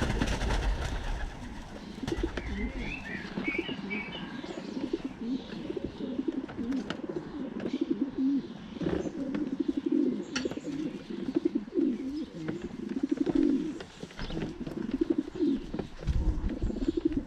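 Racing pigeons cooing continuously in the loft, several birds' rolling coos overlapping. There are scattered sharp clicks and a few brief higher chirps a couple of seconds in.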